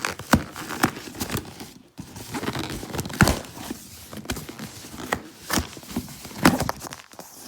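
A cardboard shipping box being opened by hand: tape tearing and cardboard and packing material rustling, with irregular sharp knocks and scrapes.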